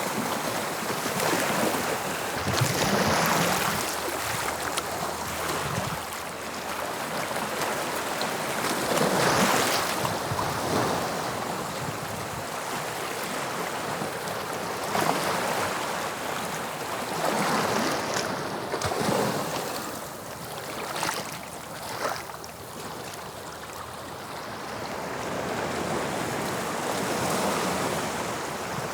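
Sea waves breaking and washing up the shore: a continuous rush of surf that swells and ebbs every few seconds, with a few short, sharp splashes about two-thirds of the way through.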